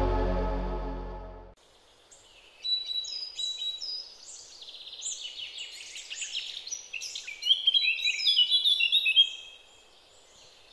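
Ambient music with long sustained tones fading out in the first second and a half, then birds chirping and whistling, several short songs and a rapid trill overlapping, loudest about eight seconds in before dropping away.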